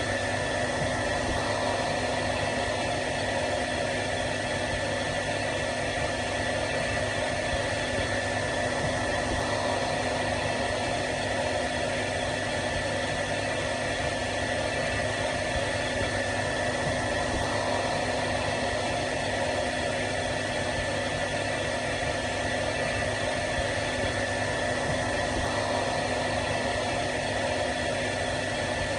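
Hair dryer running steadily: an even rushing blow of air with a constant motor hum and a faint steady whine.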